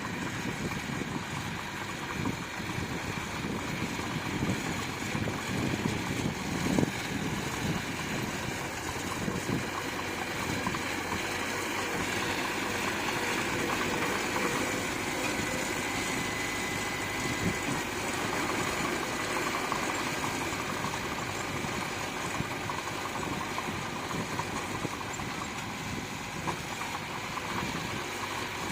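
Bulldozer's diesel engine running steadily, with a sharp knock about seven seconds in.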